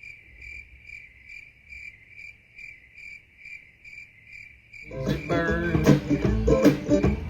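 Cricket chirping steadily in an even rhythm, about two chirps a second, for roughly five seconds. Then a song with guitar and singing starts, louder, and covers it.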